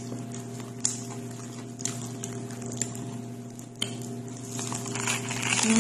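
Close-up chewing of a crusty, oven-toasted Vietnamese bread roll sandwich: soft wet mouth sounds with scattered crackles and clicks from the crust, about one every second. A steady electrical hum runs underneath.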